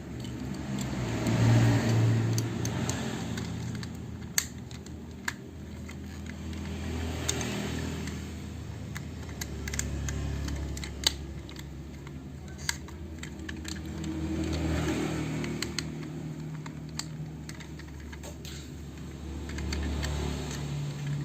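Hard plastic toy parts clicking and rattling as a transforming toy robot is handled, with a few sharp single clicks. A low hum under it swells and fades about every six seconds.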